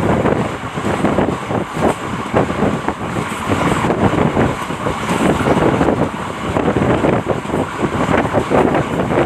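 Heavy wind buffeting on the microphone, a loud, rough rumble that swells and dips unevenly.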